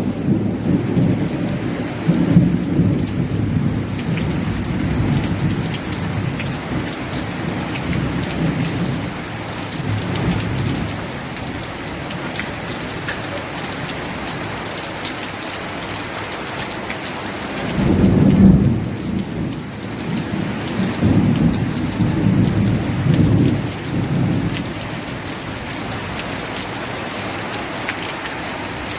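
Steady rain with thunder rumbling low underneath, rolling on through the first part. A heavier roll of thunder swells up about two-thirds of the way through and keeps rumbling for several seconds after.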